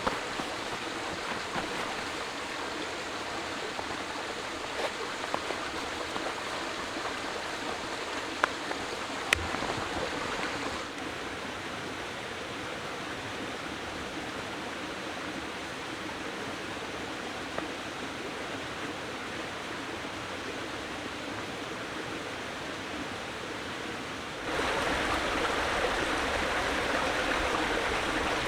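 Steady rushing of flowing water, with a few sharp clicks in the first third. The level drops slightly about a third of the way in and steps up near the end.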